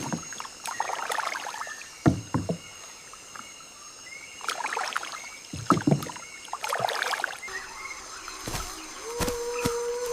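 Water splashing in repeated strokes about every two seconds, over a steady high-pitched whine.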